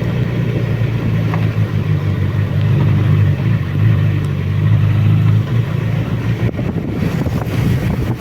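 Suzuki Bandit motorcycle's inline-four engine running at a steady note while riding downhill, with a brief dip about five and a half seconds in.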